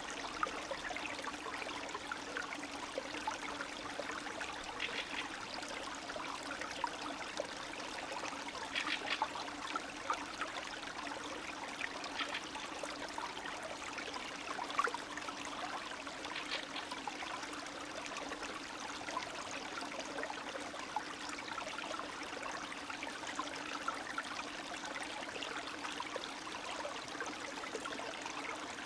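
Spring stream running steadily over its bed, a continuous trickling and babbling with small splashes popping out now and then.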